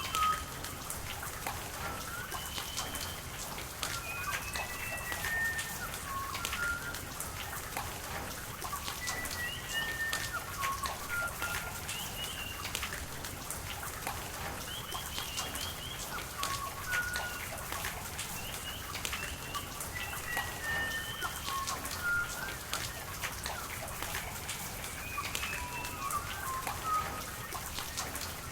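Steady rain with drops pattering, and birds chirping short whistled notes again and again throughout.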